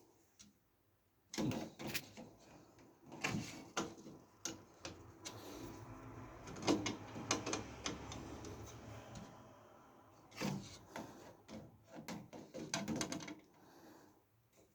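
Clicks, knocks and rubbing of hardware being handled and fitted while a PC liquid cooler is mounted in a case, with a longer stretch of rubbing and scraping in the middle.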